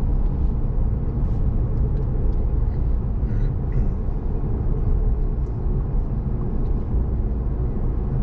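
Steady low rumble of a vehicle driving, heard from inside the cabin: engine and road noise, with a few faint ticks in the first half.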